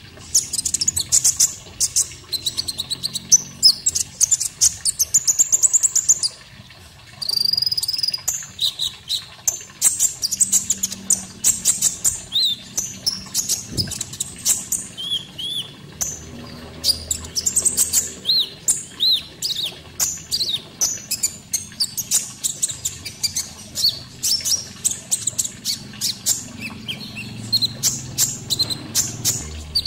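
Konin songbird singing a fast, busy string of high chirps, trills and short whistled notes, with brief pauses between phrases.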